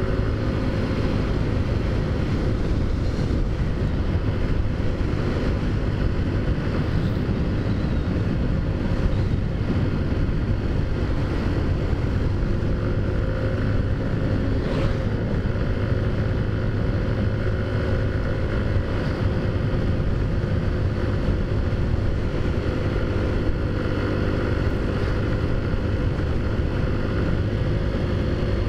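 Modified Taotao Zummer 50cc four-stroke scooter engine running at a steady pitch while riding, with wind rushing over the microphone.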